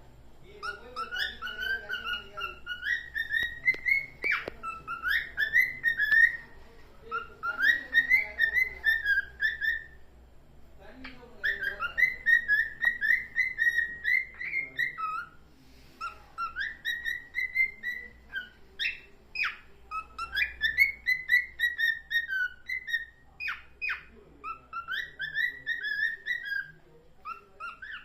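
Cockatiel whistling its song: warbling phrases several seconds long, repeated with short pauses between them, and a few sharp clicks among them.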